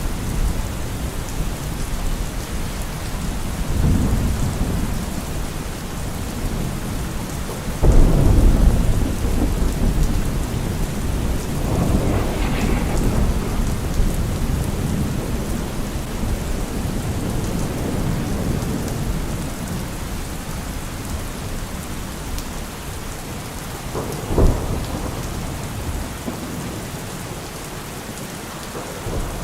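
Steady rain falling with thunder: a low rumble about four seconds in, a loud clap about eight seconds in that rolls on and fades over several seconds, and another short crack near the end.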